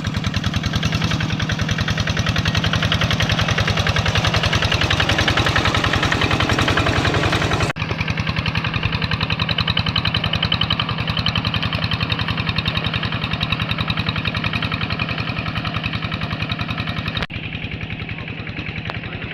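Tractor engine running steadily with a fast, even chug, dropping abruptly in level about eight seconds in and again near the end.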